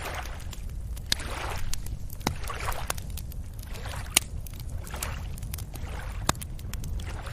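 Small waves lapping and sloshing at the water's edge, a soft wash coming about every second, with scattered sharp clicks and a steady low rumble underneath.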